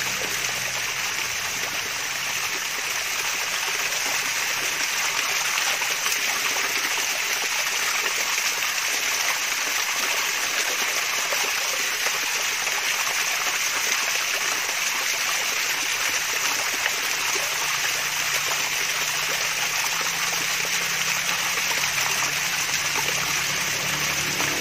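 Water from a small waterfall splashing and trickling steadily, a continuous babbling rush.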